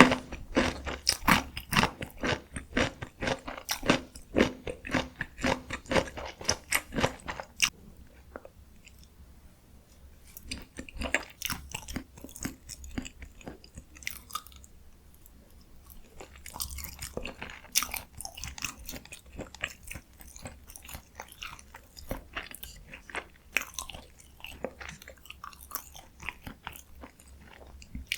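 Close-miked chewing of spicy stir-fried chicken (dakgalbi): quick trains of wet chewing clicks in spells, with quieter gaps in between.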